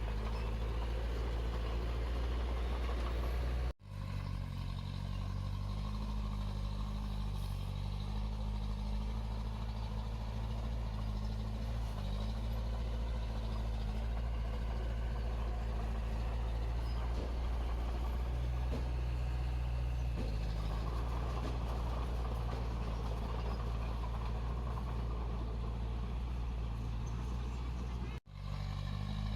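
Diesel engine of heavy earthmoving equipment running steadily, its pitch shifting slightly now and then as it works. The sound drops out abruptly for a moment twice, once about four seconds in and again near the end.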